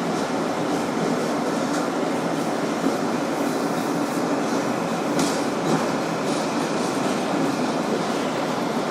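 Steady running noise of a Kawasaki R188 subway car heard from inside while the train is moving: a constant rumble of wheels on rail, with a brief click about five seconds in.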